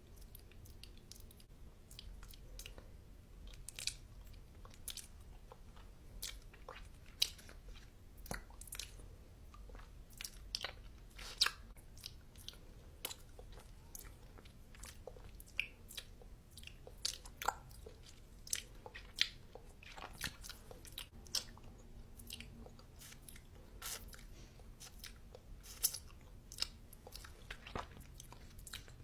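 Close-miked eating: a person biting and chewing crunchy food, making many sharp, irregular crunches.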